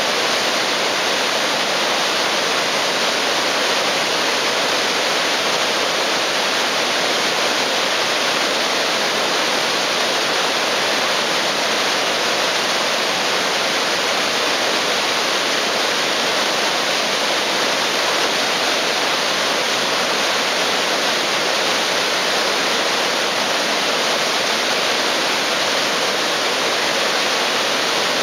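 Sogi Falls waterfall: a steady, loud rush of falling and churning water that never changes.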